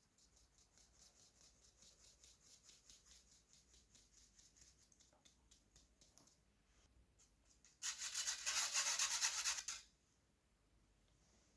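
A utensil scraping and stirring in a mixing bowl in quick rhythmic strokes, about four a second. About eight seconds in comes a much louder rush of noise lasting about two seconds.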